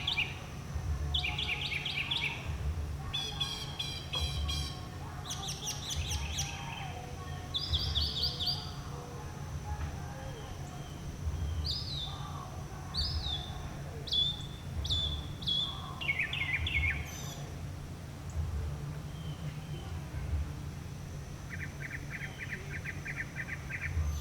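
Northern mockingbird singing: a run of different short phrases, each made of quickly repeated high notes, switching to a new phrase every second or two with a few pauses between.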